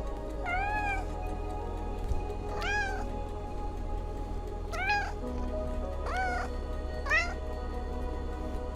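Domestic cat meowing five times, each call rising and then falling in pitch, over background music with steady held notes.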